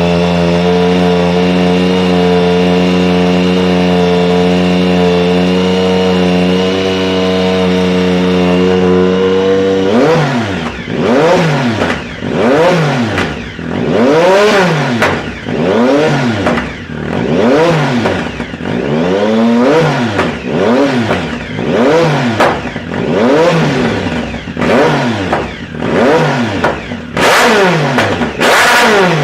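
Triumph Speed Triple's inline three-cylinder engine through an aftermarket Competition Werkes exhaust: held at steady revs, then about ten seconds in it is blipped up and down over and over. Near the end sharp pops crack from the exhaust on the overrun, typical of an untuned bike with the secondary air injection not blocked off.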